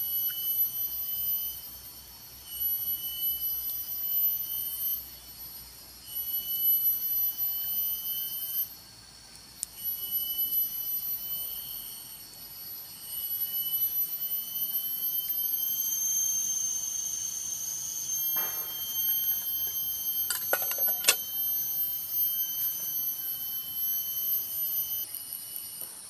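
Chorus of forest insects making high, shrill, steady tones that swell and break off every few seconds, with a few sharp clicks about three-quarters of the way through.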